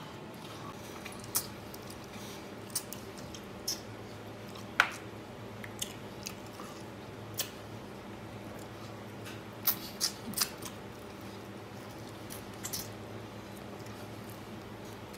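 A person chewing and gnawing smoked pig's trotters held in the hands, with scattered wet smacks and sharp clicks, the loudest about five seconds in and a cluster around ten seconds in, over a steady low hum.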